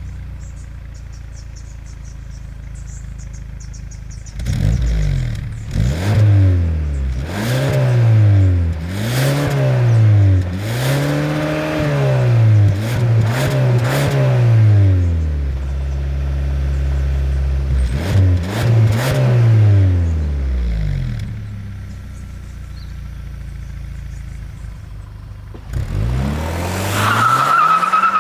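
Hyundai Sonata N Line's 2.5-litre turbocharged four-cylinder running steadily, then pulling hard with its engine note rising and falling repeatedly through the revs and gear changes. It settles, revs up again, and gives a short squeal near the end.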